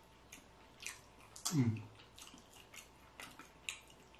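Close-miked chewing and crunching of KFC fried chicken, a string of short crisp bites and smacks. About a second and a half in there is a short hummed "mm" that falls in pitch, the loudest sound.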